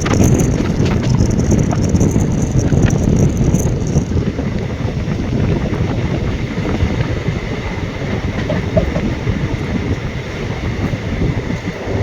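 Moving train running along the track: a steady, loud rumble of wheels on rails, with wind buffeting the microphone and a few sharp clicks in the first few seconds.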